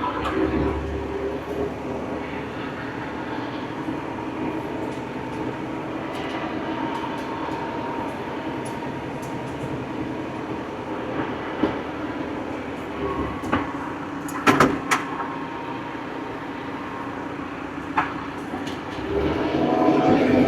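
An old farm tractor's engine running steadily under way, broken by a few sharp clanks: one about halfway through, two close together a little later, and one near the end.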